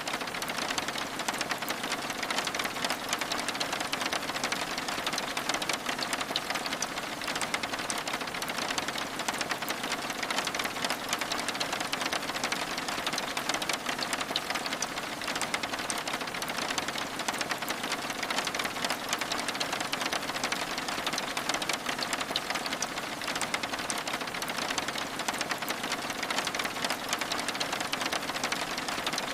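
Steady rain pattering on a window, a dense, even rush of fine drop ticks with no change.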